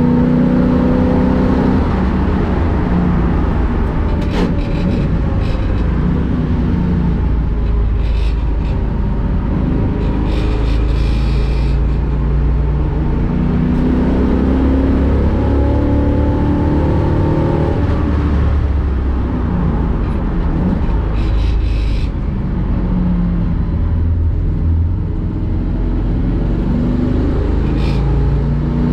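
A 1965 Ford Mustang race car's engine being driven hard on a lap, its pitch climbing and dropping again and again as it revs up through the gears and comes off the throttle for corners.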